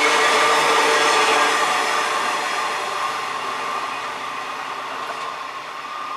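Passenger train coaches rushing past at speed on the rails, a loud steady rolling noise that begins to fade after about a second and a half and keeps dying away as the train recedes.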